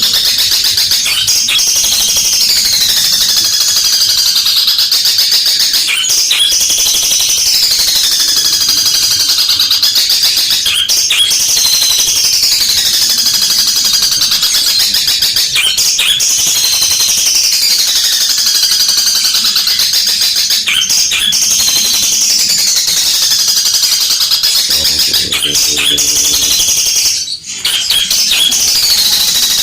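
Long-tailed shrike (cendet) singing loudly and without a break, a shrill phrase of falling and rising whistles repeating about every five seconds, with sharp clicks scattered through.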